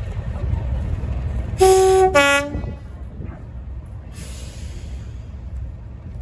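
Two-tone train horn: a short high note, then a lower note, sounded once about two seconds in, over a low rumble. A brief hiss follows a couple of seconds later.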